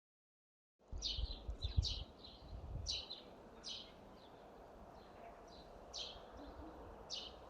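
Small birds chirping outdoors, starting about a second in: short, quick downward chirps repeated every half second or so, with a low rumble underneath during the first couple of seconds.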